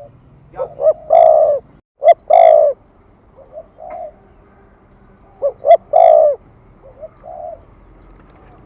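Spotted dove cooing: two loud call phrases, each opening with a couple of short notes and swelling into long, deep coos, with softer short coos between them.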